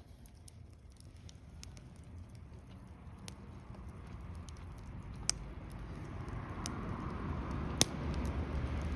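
Wood fire crackling in a fire pit, with a few sharp pops over a steady hiss that grows louder toward the end.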